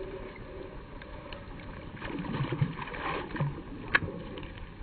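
Water sloshing and light knocks and scuffs on a kayak, busier in the middle, with one sharp click about four seconds in.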